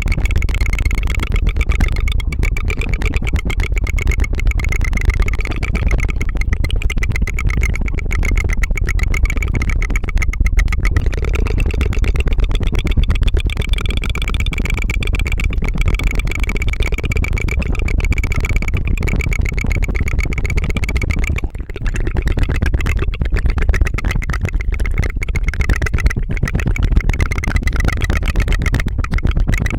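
ASMR mouth sounds: a continuous, rapid tongue flutter, the tongue trilling against the mouth in a fast rattling stream. There is a brief break about two thirds of the way through.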